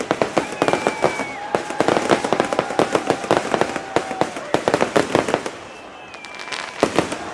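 Fireworks display: a rapid run of sharp bangs and crackles from exploding aerial shells. It eases off about two-thirds through, then a few more sharp reports come near the end.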